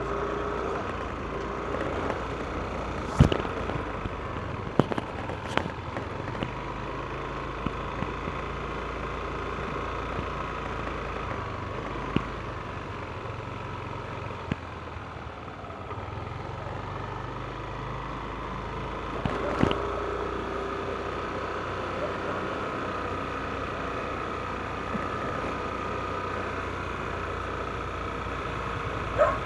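Yamaha NMAX single-cylinder scooter running at riding pace, its engine drone mixed with road noise, broken by a few sharp knocks, the loudest about three seconds in and another near twenty seconds.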